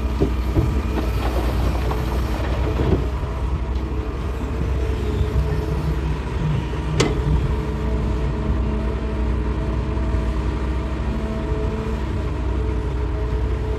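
Hitachi excavator's diesel engine running steadily with a deep rumble and a constant hum. A few sharp knocks come as it digs rock, several in the first three seconds and the sharpest about seven seconds in.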